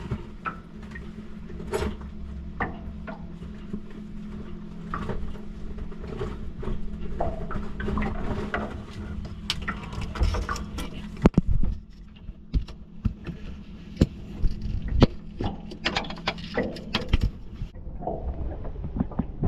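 Scattered clicks, clinks and knocks of hand tools being worked on a boat's engine, over a steady low hum.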